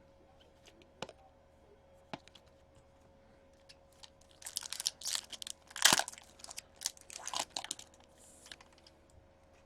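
A couple of light clicks, then a few seconds of crinkling and tearing as a trading-card pack wrapper is ripped open and handled, loudest about six seconds in.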